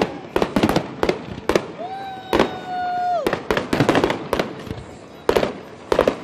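Aerial firework shells bursting overhead in a rapid, irregular series of sharp bangs, at times several a second. About two seconds in, a steady high held tone lasts about a second and a half over the bangs.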